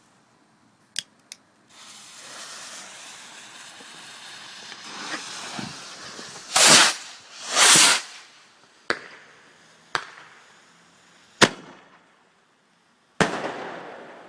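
Consumer firework going off: a hiss that builds for several seconds, then two loud bangs about a second apart, then four sharp single cracks spaced over the next few seconds.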